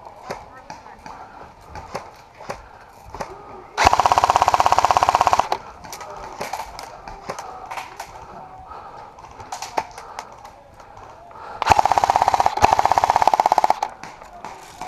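Airsoft rifle firing two long full-auto bursts, the first about 4 seconds in and the second near the end, each lasting about a second and a half to two seconds. Scattered single shots sound in between.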